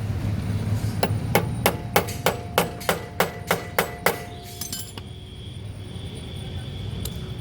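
Hammer striking metal on a motorcycle engine part, about eleven sharp blows at roughly three a second, the metal ringing between strikes, then stopping about four seconds in.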